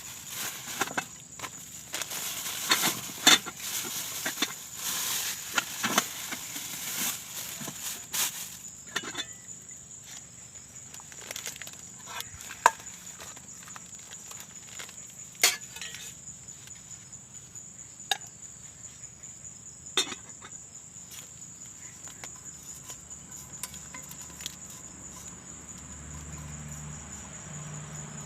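Insects trilling steadily at a high pitch, with scattered sharp clicks and knocks that come thick and fast for the first several seconds, then only now and then.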